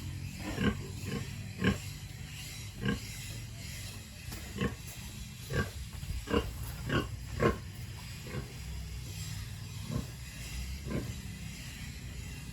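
Pigs grunting: a dozen or so short grunts at irregular intervals, most of them in the first seven or eight seconds, over a low steady hum.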